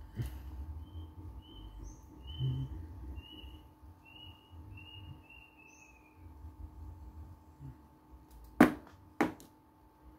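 A small bird chirping a quick series of about nine short, slightly falling notes, over a low rumble. Near the end come two sharp knocks about half a second apart, the loudest sounds.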